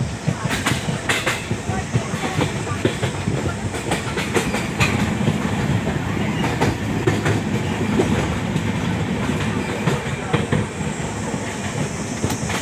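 Passenger train running along the track, heard from an open coach doorway: a steady rumble, with the wheels clicking over rail joints now and then.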